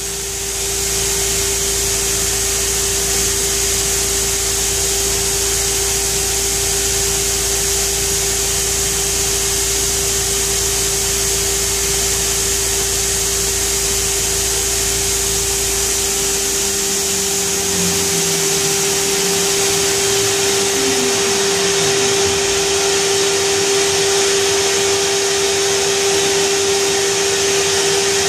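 Pheer 327 2x72 belt grinder running steadily at full speed: a constant motor whine over a loud hiss from the belt.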